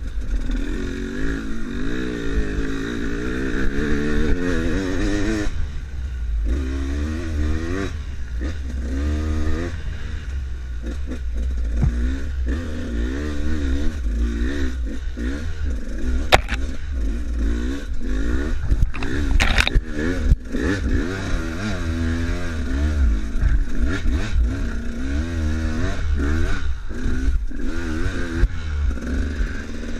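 Enduro motorcycle engine being ridden, its pitch rising and falling constantly as the throttle opens and closes, with a few sharp knocks and clatters along the way.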